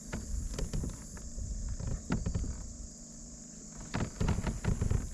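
Handling noise in a kayak: scattered clicks and knocks with low thumps, thickest about four seconds in.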